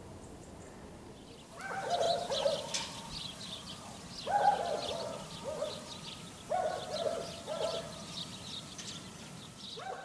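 Birds calling: a low phrase of two or three notes repeated three times about two seconds apart, over many short, high chirps from small birds.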